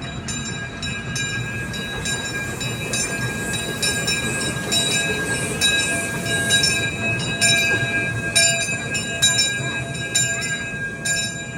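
Miniature ride-on park train rolling along its track: a low rumble, repeated clicks as the wheels pass the rail joints, and a steady high squeal from the wheels.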